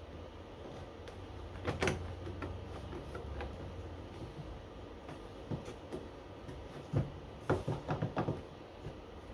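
Knocks and clatter of wooden beehive parts being handled and fitted together: a sharp knock about two seconds in, a few lighter taps, then a quick run of five or six knocks near the end.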